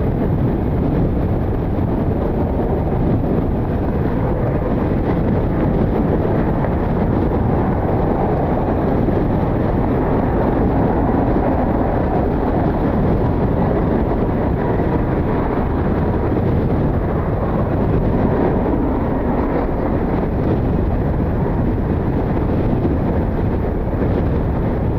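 Strong gusty wind buffeting the microphone: a loud, steady, low rumbling roar with no distinct events.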